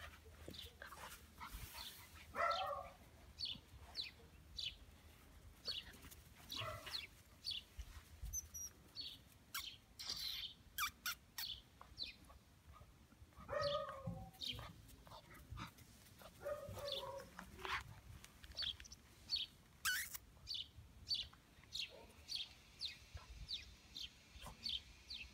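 Small birds chirping over and over, short high calls about every half second, with a few lower animal calls now and then.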